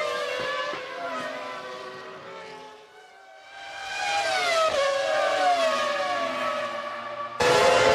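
Formula One cars' V10 engines at racing speed passing by, each engine note dropping in pitch as it goes past. The sound fades away about three seconds in, another car approaches and passes, and near the end it jumps abruptly to a closer, louder engine at high revs.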